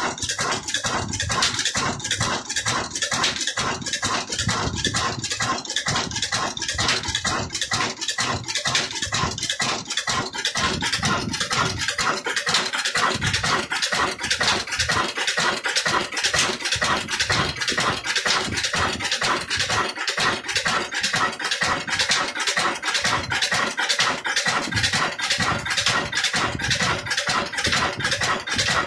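Old Ruston Hornsby diesel engine running steadily and driving a chakki flour mill: a regular, even beat with a clattering metallic rattle over it.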